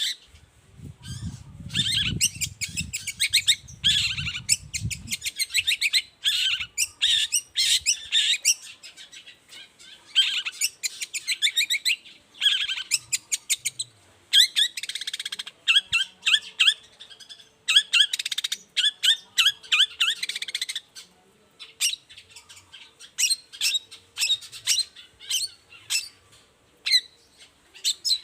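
Long-tailed shrike (cendet) singing, a chattering run of quick high notes in repeated bursts with short pauses, some notes harsh. A low rumble sits under the song for the first five seconds.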